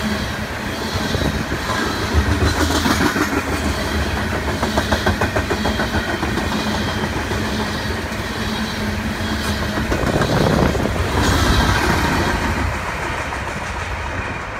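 Loaded tank cars of a freight train rolling past, their steel wheels clicking in a steady rhythm over the rail joints. The noise eases slightly near the end as the last car passes.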